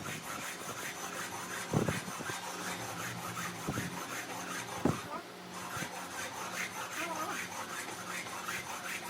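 Repeated hand scraping or rasping strokes, several a second, with two sharp knocks, one about two seconds in and one about five seconds in.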